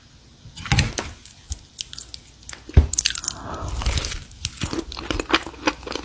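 Close-miked crunchy biting and chewing, mukbang style, with sharp crackles throughout. Loud crunchy bites come just under a second in and again a little under three seconds in.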